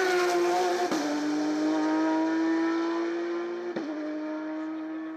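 Race car engine at high revs under hard acceleration, with two quick upshifts, about one second in and near four seconds, each dropping the pitch before it climbs again. It grows fainter near the end as the car pulls away.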